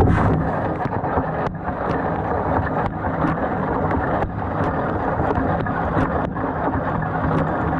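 GE GDT655SSJ0SS dishwasher running, with a steady rush of spraying water and short sharp splashes or ticks every second or so. The lower spray arm is not spinning, a fault the owner traced to a stuck orange ball valve clogged with gunk.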